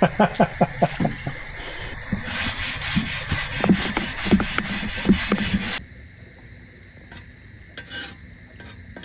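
Utensil scraping and stirring food on a campfire fire plate in rhythmic rasping strokes, with little sizzle because the plate sits too high above the fire. The scraping cuts off abruptly about six seconds in.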